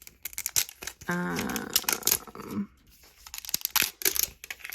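Plastic wrapping of a toy capsule being torn open and crinkled in many quick, sharp crackles. About a second in, a brief wordless hummed vocal sound lasts about a second and a half.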